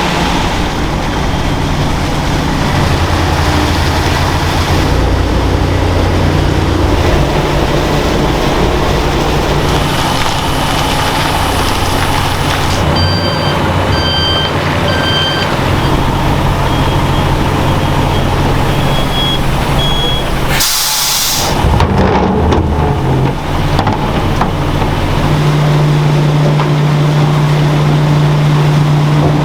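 Heavy vehicle engine running steadily, with a run of short high beeps partway through and a brief burst of air hiss about two-thirds in.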